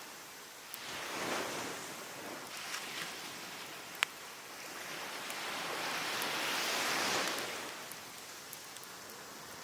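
Waves washing onto the beach in two swells, a small one about a second in and a larger one after about six seconds, with sharp pops and crackles from a wood fire of cedar and oak. The loudest pop comes about four seconds in.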